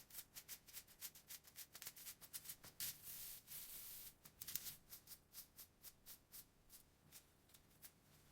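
Faint small clicks, about three a second, of matchsticks being handled and set down, with a soft scraping rustle about three seconds in.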